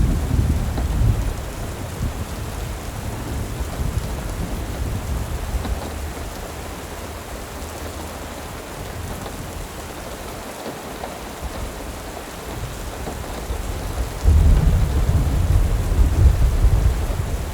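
Steady rain falling, with low rumbles of thunder: one fading over the first couple of seconds and another breaking in abruptly about 14 seconds in.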